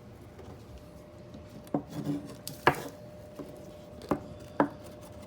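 A utensil tapping and knocking against a dish while garlic topping goes onto a baked potato: four sharp taps spread over a few seconds, the loudest about two and a half seconds in, over a faint steady hum.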